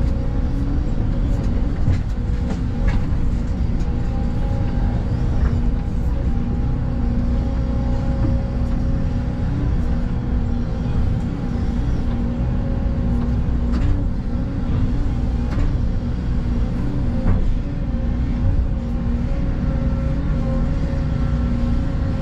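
Excavator's diesel engine running steadily with an even hum, with a few short clicks and knocks scattered through.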